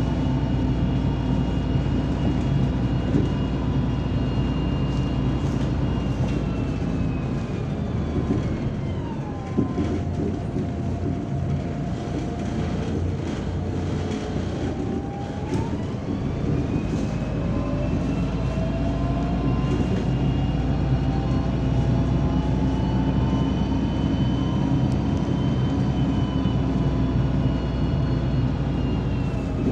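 MAZ-203 city bus heard from inside, running in traffic with a steady low engine hum and a whining tone. The whine falls as the bus slows about a quarter of the way in, stays low and quieter for several seconds, then rises again as the bus pulls away.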